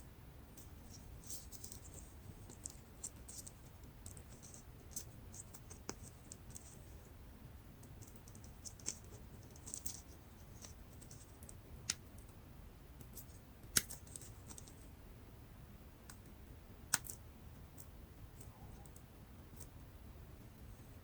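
Faint, scattered light clicks and scratches of small plastic and metal laptop parts being handled, with a few sharper ticks about twelve, fourteen and seventeen seconds in.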